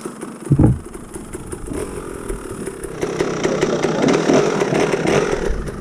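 Enduro dirt bike engine given a sharp blip of throttle about half a second in, then running low and uneven, as the rider works to get it over a log.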